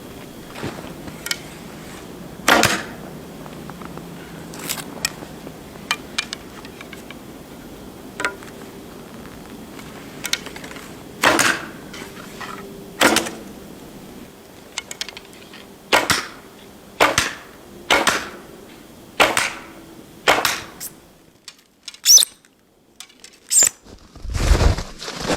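A series of sharp impacts at irregular spacing, coming about once a second for a stretch later on. A burst of low rumbling noise starts just before the end.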